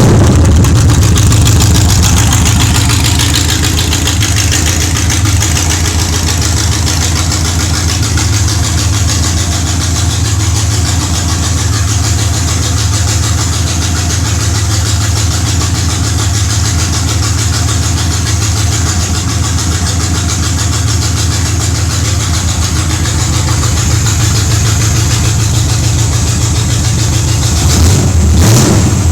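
Freshly rebuilt Chevrolet 305 small-block V8 idling steadily. It is a little louder in the first couple of seconds and again near the end.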